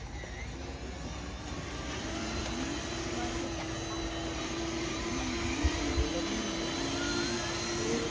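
Small electric motor of a hobby-built RC truck running with a steady, even tone over a rough rumble, the tone settling in about two seconds in. Two short knocks come a little past the middle.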